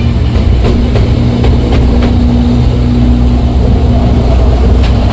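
Ride inside a moving toy-train carriage: a steady low rumble and hum, broken by a few sharp clicks from the running gear, most of them in the first two seconds and one more near the end.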